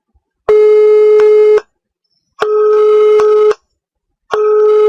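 Telephone call tone: a loud beep of one steady pitch sounds three times, each about a second long with shorter silent gaps between, like a phone ringing out on a call.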